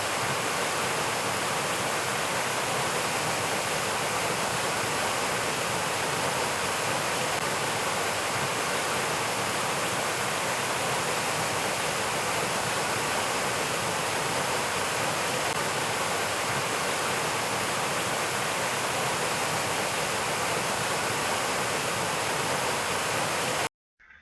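Steady, even rushing noise, like running water or hiss, that cuts off abruptly shortly before the end.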